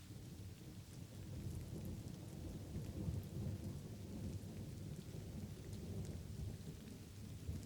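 Light rain falling steadily, with a low, long rumble of thunder that swells about a second in and fades near the end.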